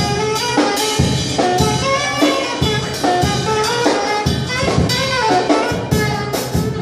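Saxophone playing a quick jazz melody, many short notes, over a drum kit keeping a steady beat.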